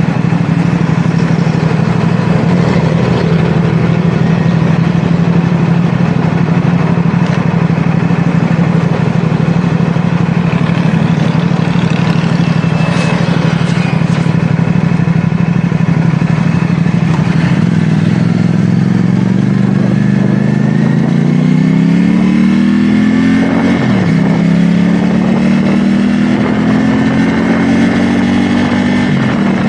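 CFMoto 450SR S's parallel-twin engine running at a steady pitch, then pulling up through the revs. The note drops sharply about 24 seconds in at a gear change, climbs again, and dips once more near the end.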